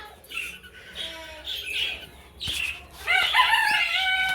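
Aviary birds calling: a few short scattered calls, then one long drawn-out call starting about three seconds in that sinks slightly in pitch.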